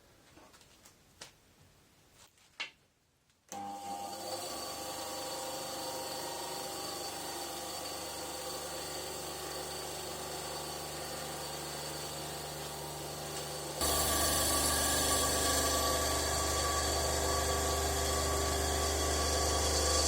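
A few light knocks, then a bandsaw motor starts about three and a half seconds in and runs with a steady hum. About fourteen seconds in the sound gets markedly louder and hissier and stays so.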